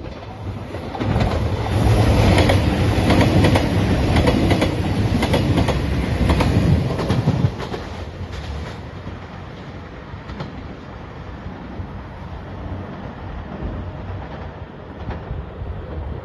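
A train passing close by, its wheels clicking rhythmically over rail joints. It is loudest for the first several seconds, then drops off suddenly about seven and a half seconds in to a quieter, steady running sound.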